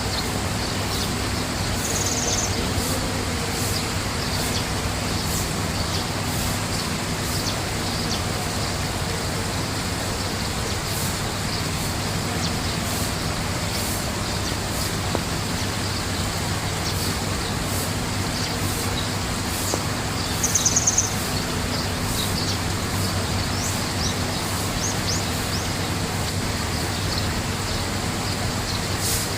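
Small birds chirping over a steady rushing noise with a low hum. A rapid trill stands out about twenty seconds in, with a shorter one about two seconds in.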